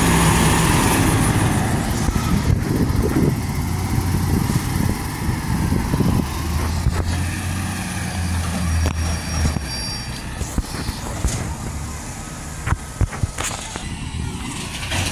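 Cummins natural-gas (CNG) bus engine running with a steady low hum that weakens gradually over the second half. Several sharp knocks come near the end.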